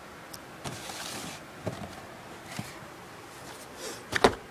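Handling of fireworks packaging: soft rustling and a few light clicks, then one sharp knock near the end, as a pack is set down.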